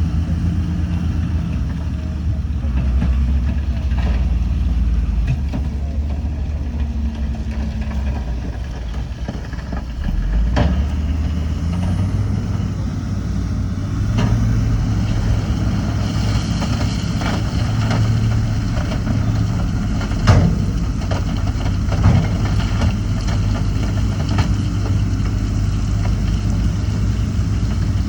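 Bulldozer's heavy diesel engine running, its note stepping up about a third of the way in, with scattered sharp knocks through the second half.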